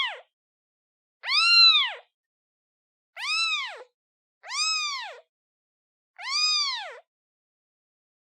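Newborn kitten meowing for its mother: four high meows about a second and a half apart, each rising then falling in pitch, with silence between them.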